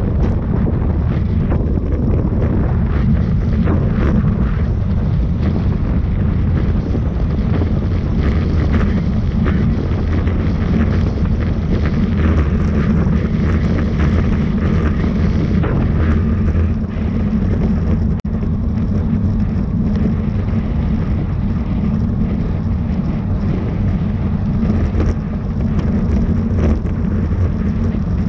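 Steady, loud wind rush on the microphone of a camera carried at race speed on a bicycle, heaviest in the low end, with a few faint clicks.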